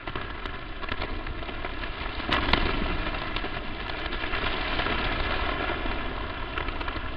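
Crackling static noise: a steady hiss with scattered sharp crackles and a faint buzz running through it, louder for a moment about two and a half seconds in.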